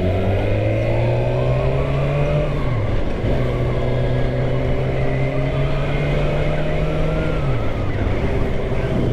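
2013 Suzuki GSX-R600's inline-four engine pulling under acceleration, its pitch climbing steadily. It drops sharply at an upshift about three seconds in, then climbs again to a second upshift late on.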